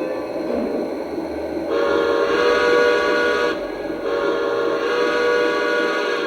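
Lionel Legacy O gauge model of Santa Fe 4-8-4 steam locomotive 2926, its onboard sound system blowing two long steam whistle blasts over a steady running noise.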